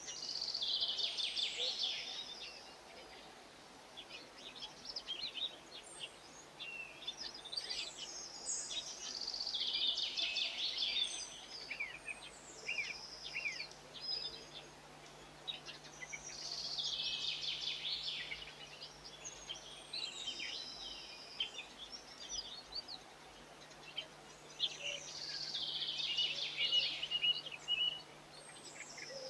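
A songbird singing the same short, falling, trilled phrase four times, roughly every eight seconds, with quieter chirps from other birds in between.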